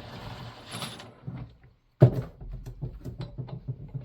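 Metal tools working the reverse-threaded clutch off a STIHL 019 chainsaw. A hiss runs for about the first second, then about two seconds in there is a sudden clunk followed by a quick run of clicks and knocks.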